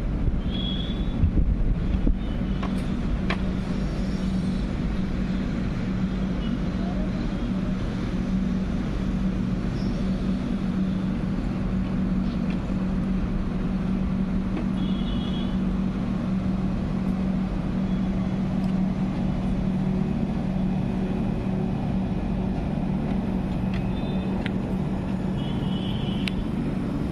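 Howrah Mail express train running slowly: a steady low rumble with a constant hum and a few light clicks in the first seconds.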